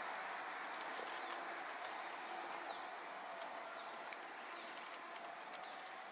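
A bird calling with short, high whistled notes that fall in pitch, about one a second, over a faint steady outdoor background noise that slowly fades.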